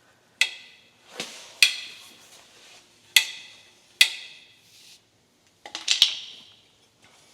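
Sharp metallic clinks and knocks, about six strikes spaced roughly a second apart with a quick double near the end, each with a short bright ring: metal parts being handled while a small engine is readied for a rope start.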